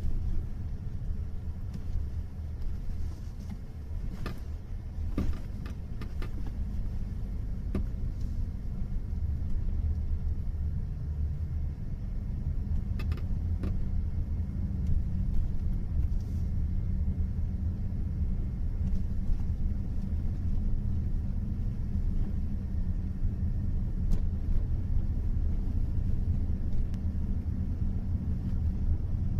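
Steady low rumble of a Jetour Dashing crossover under way, with a few brief creaks or clicks from inside the car scattered through the first half: the squeak the owner is recording.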